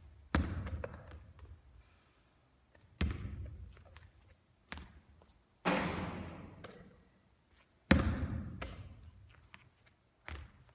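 A basketball bouncing on a court during three-point shooting practice: about six separate loud impacts a second or two apart, each followed by a short ringing echo.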